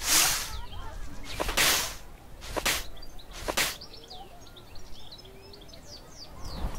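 Footsteps in sand, about one a second, that stop a little under four seconds in. Faint chirps of small birds follow.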